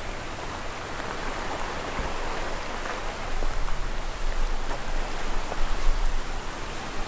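Shallow creek water rushing steadily over rocks, with uneven low thumps in the second half.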